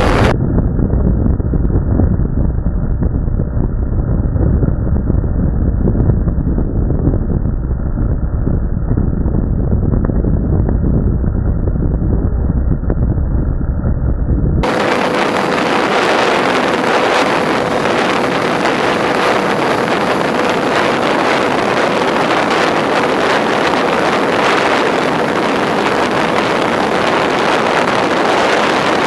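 Wind rushing over the microphone of a camera mounted on a Twinstar II RC plane in flight. For the first half it is muffled and rumbling. About halfway it turns abruptly to a brighter hiss, under which runs a faint steady whine from the plane's electric motors.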